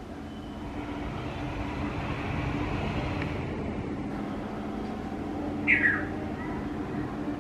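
Steady low background hum that swells for a few seconds, with one short, falling bird call about six seconds in, the loudest sound here.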